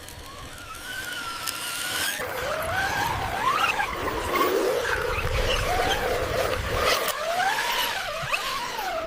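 Electric motors of radio-controlled construction models whining, the pitch rising and falling over and over as they speed up and slow down, over a steady grinding noise.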